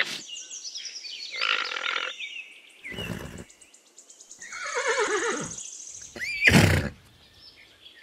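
Horse whinnying: a falling, wavering call about halfway through, then a short, louder call near the end.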